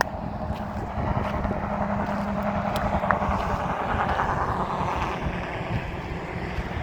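Wind rumbling on the microphone, with a vehicle going by on a nearby road: its engine hum and tyre noise swell from about a second in and fade after about five seconds.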